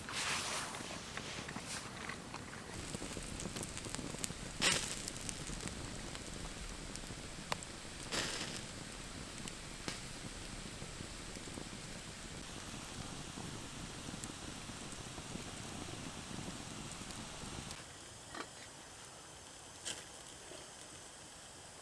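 Wood campfire crackling: a steady hiss with scattered pops and a few louder snaps, turning quieter for the last few seconds.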